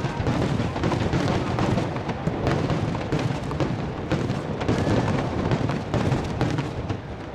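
Starmine fireworks barrage: a rapid, overlapping run of shells bursting, several bangs a second over a continuous rumble, easing off slightly near the end.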